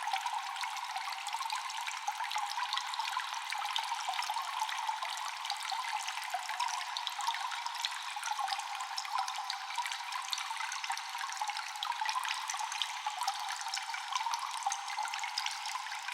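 Water dripping constantly in a cave, echoing: many small drips, densely and evenly spread, over a steady trickling hiss.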